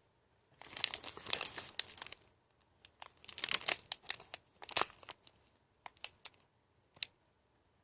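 A Nature Valley granola bar's packaging being crinkled and torn open, in two spells of crackling about a second and a half long each, followed by a few faint crackles.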